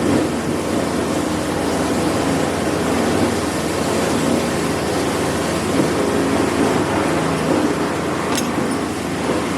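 A machine running steadily and loudly, with a sharp click about eight seconds in.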